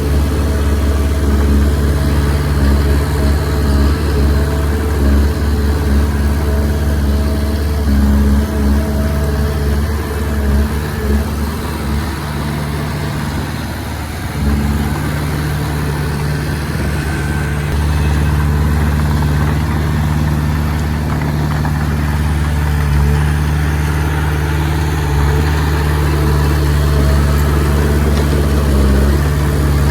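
Komatsu D20P bulldozer's diesel engine running steadily under work. It eases off briefly before the middle, then picks up again.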